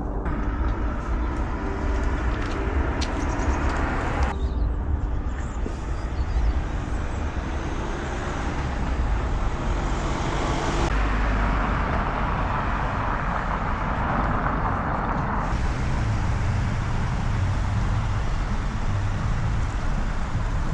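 City street traffic noise: a steady rumble of cars passing on the road. It changes abruptly several times as one street recording gives way to another.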